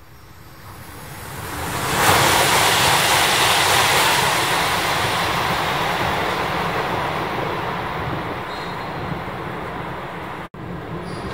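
Rushing roar of a Tohoku Shinkansen train running through the tunnel out of sight, swelling quickly to a peak about two seconds in and then slowly fading. The sound cuts out for an instant near the end.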